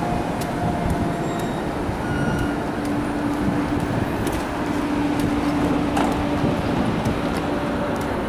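A diesel-hauled NJ Transit train standing at the platform, most likely behind a PL42AC locomotive: a steady hum and rumble of the idling train with a held low tone and a few small clicks.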